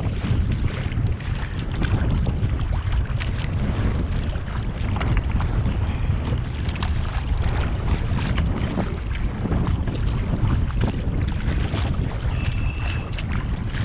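Wind rumbling on the microphone over the sound of sea water splashing and lapping around a kayak, with many small irregular splashes. A brief thin high whistle comes in near the end.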